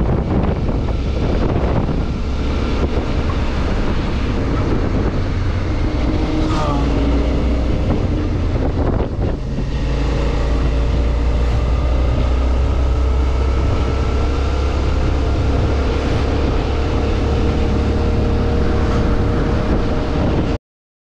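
Suzuki V-Strom 650 V-twin engine running while riding, mixed with wind rushing over the camera microphone, its note rising and falling with speed. The sound cuts out completely near the end.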